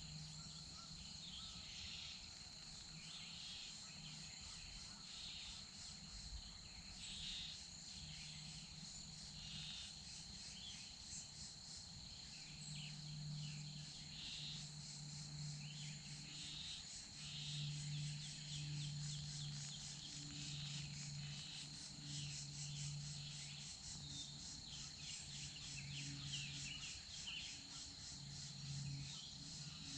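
Woodland ambience: a steady, high-pitched insect trill with many short bird songs over it, and a low hum that comes and goes.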